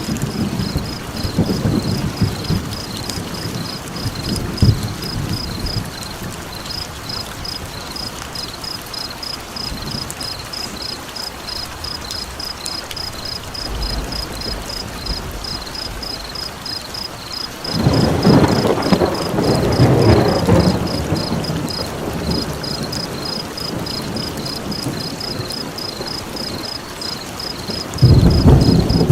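Steady rain with rolling thunder that swells about two-thirds of the way through and again near the end. Over it runs a high, rapid pulsing call, repeating about three times a second.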